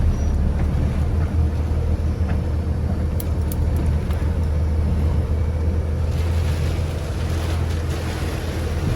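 Vehicle engine running steadily with a deep low rumble, under wind noise on the microphone. A few sharp clicks come about three seconds in, and a hiss grows louder from about six seconds.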